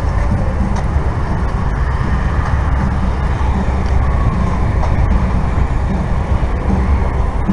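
Steady low vehicle rumble with road noise.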